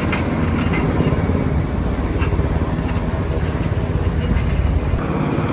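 Helicopter running, a loud steady rumble of engine and rotor noise.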